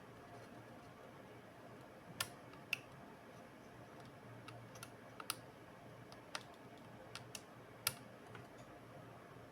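Scattered small sharp clicks and taps, about a dozen at irregular intervals, of small tools and plastic and metal laptop parts being handled, over a faint steady hum.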